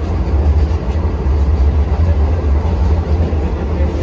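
Vande Bharat Express trainset running at speed, heard from on board as a steady deep rumble.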